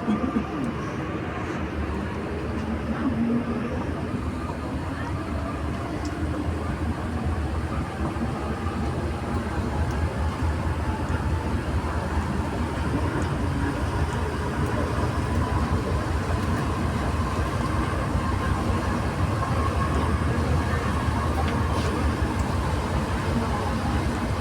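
Inside a Santiago Metro NS-93 rubber-tyred train running between stations: a steady low rumble with a whine that rises in pitch over the first dozen or so seconds as the train accelerates, then holds steady.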